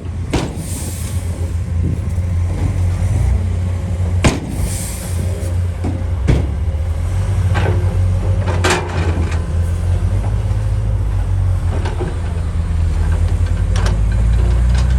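Heavy diesel construction machinery running with a steady low rumble. Sharp metallic clanks come every few seconds, and two brief hisses follow the clanks near the start and about four seconds in.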